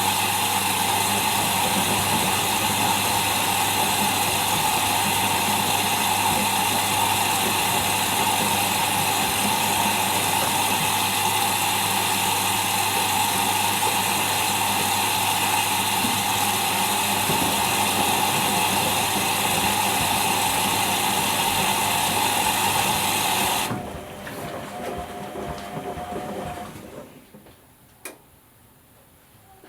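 Whirlpool Indiana 1400 washing machine running, a loud steady rushing noise with a low hum. It cuts off suddenly about 24 seconds in, leaving a fainter hum that dies away a few seconds later.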